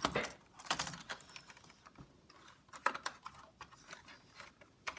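Scattered small plastic clicks and brief rustles as cables are rerouted and pressed into a laptop's plastic chassis.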